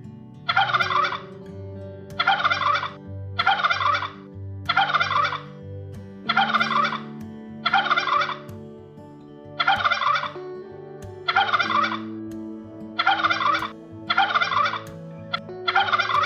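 A bird calling over and over, about a dozen rattling calls just under a second each, a little over a second apart, over faint steady low tones.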